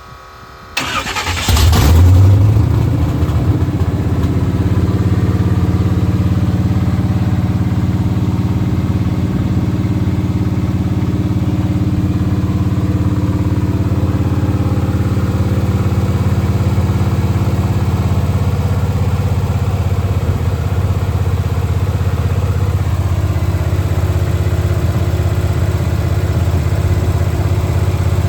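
Freshly rebuilt Chevrolet 350 small-block V8 in a Monte Carlo SS: a second of cranking, then it catches with a quick rev about two seconds in and settles into a steady idle.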